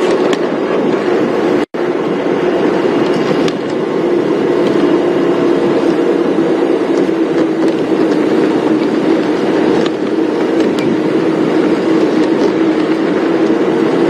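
Safari game-drive vehicle driving, its engine making a steady drone over rumbling road noise; the sound cuts out for an instant just under two seconds in.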